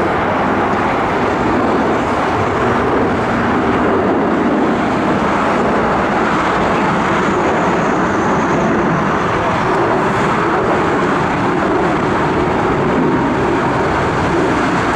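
Four-engine Airbus A340 jet airliner on its takeoff, engines at high power: a loud, steady jet noise.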